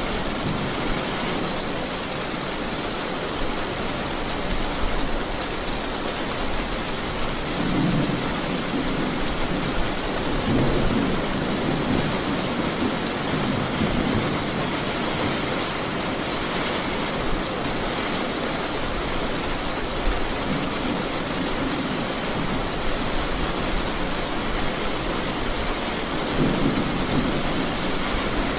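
Steady rain with low rolling thunder that swells several times, about a quarter of the way in, again about a third of the way in, and twice more in the last third.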